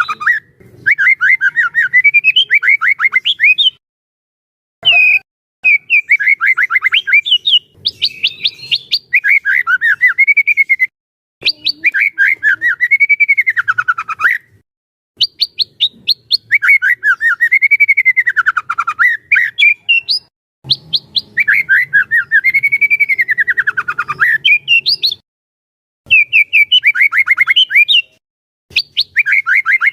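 White-rumped shama singing: loud phrases of rapid chattering notes that rise and fall in pitch, each a few seconds long, with short breaks between phrases.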